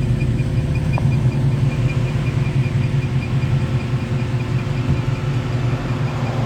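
A 1952 Chevrolet step-side pickup's engine idling steadily, with a light regular ticking about five times a second.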